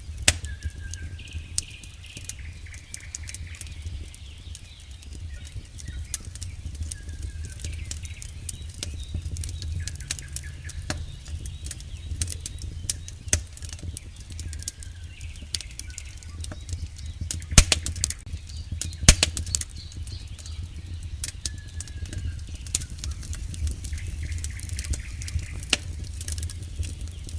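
Campfire burning: wood crackling with frequent small snaps and two loud pops a second and a half apart about two-thirds of the way through, over a low steady rumble of the flames. A few faint short whistles come now and then.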